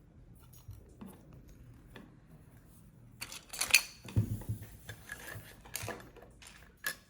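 Loose plastic Lego pieces clicking and rattling as they are handled and sorted, with a few sharper clicks and a brief clatter about three to four seconds in.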